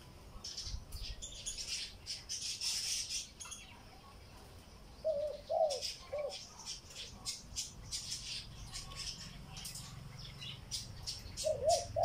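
A bird calling: two short runs of quick arched notes, one about halfway through and one near the end. Soft, scratchy high rustling runs between them.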